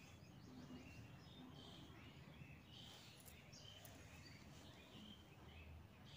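Near silence: room tone with faint, scattered bird chirps in the background.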